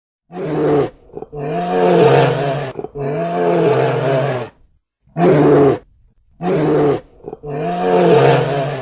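A big cat roaring: six loud calls, each half a second to a second and a half long, with short breaks between them.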